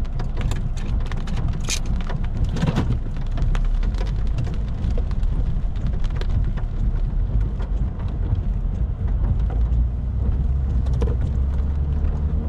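Rain hitting a car's roof and windshield as many quick taps, thickest in the first few seconds, over a steady low rumble from the vehicle.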